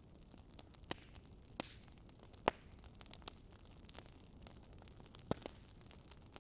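Fire crackling: irregular sharp pops over a faint steady hiss, the loudest about two and a half seconds in.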